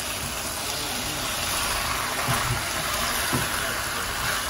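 Curry chicken with potatoes and vegetables sizzling in a pot on the stove, a steady hiss.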